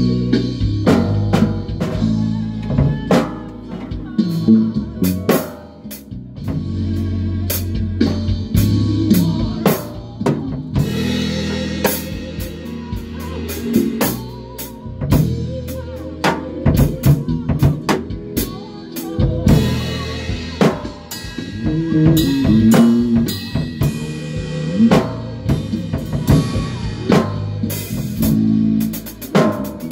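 Band rehearsing: a drum kit with kick, snare and rimshots plays over sustained low bass notes.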